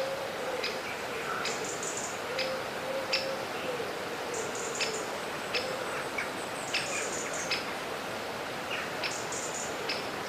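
Stream ambience: a steady hiss of running water with small birds giving short, sharp chirps, about one or two a second.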